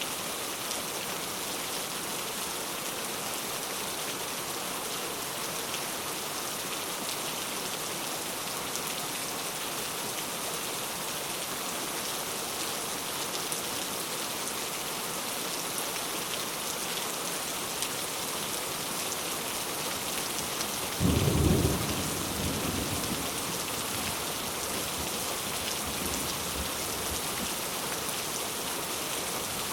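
Steady heavy rain falling on a surface. About two-thirds of the way in, a clap of thunder booms for about a second and then rumbles away.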